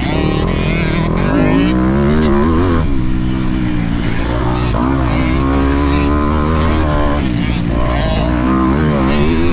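Motocross bike engine revving hard, its pitch climbing and dropping again and again as the throttle is worked and gears change.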